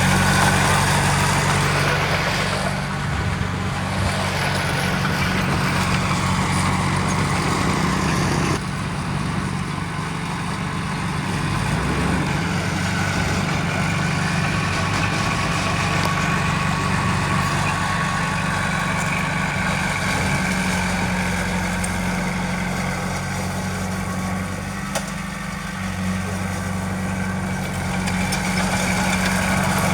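Diesel engine of heavy earthmoving machinery, a bulldozer or dump truck, running steadily with a low even hum. The sound shifts abruptly about nine seconds in.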